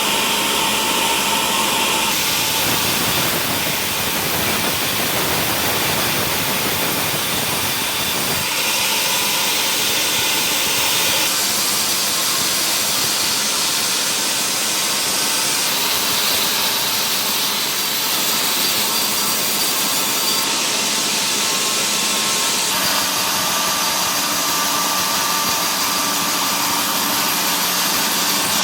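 Sawmill machinery running steadily while cutting mahogany: a loud, even, noisy drone whose tone shifts abruptly every few seconds.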